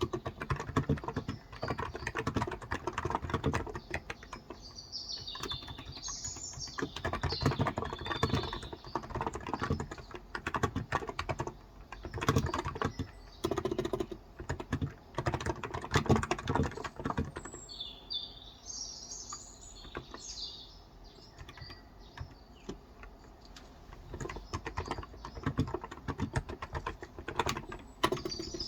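Typing on a Cox Endeavor contactless (electrostatic capacitive) tenkeyless keyboard with light 35 g switches, in bursts of keystrokes with a lull of several seconds past the middle. Birds chirp in the background, around five seconds in and again near twenty seconds.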